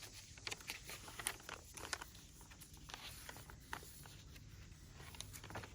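Quiet rustling and crinkling of paper and card pages in a handmade journal as it is handled and the pages are turned, with many small irregular clicks.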